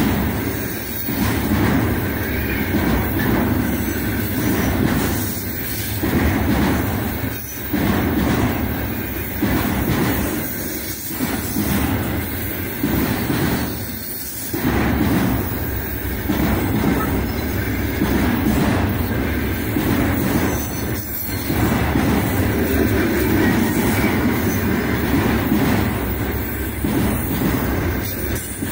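Container flatcars of a long freight train rolling past close by: a loud, steady rumble of steel wheels on the rails that dips briefly every few seconds.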